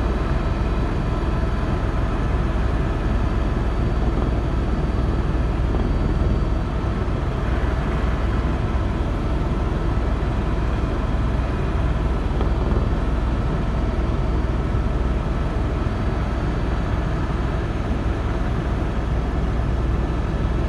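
Helicopter in steady flight, heard from on board: a loud, even low rumble with thin steady whining tones over it.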